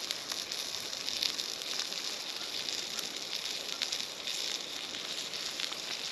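Spam frying in oil in a pan over a campfire: a steady sizzle with scattered pops and crackles.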